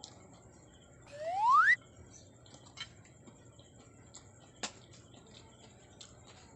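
A single rising whistle-like tone about a second in, sliding quickly upward over about half a second, followed by faint small clicks and one sharp tick just before five seconds in.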